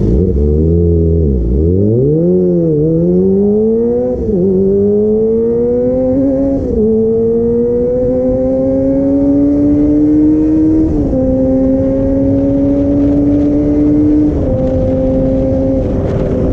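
Kawasaki ZX25R's 249 cc inline-four engine running under way. Its pitch dips and climbs in the first few seconds, then rises slowly and drops sharply four times as the rider shifts up through the gears.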